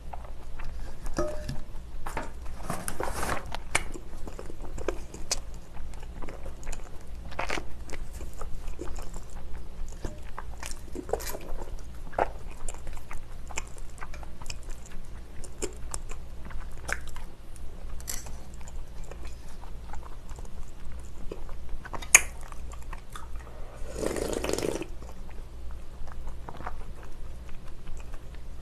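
Close-up chewing of spicy black noodles, with wet mouth sounds and many small sharp clicks throughout. Near the end there is a louder noisy sound about a second long.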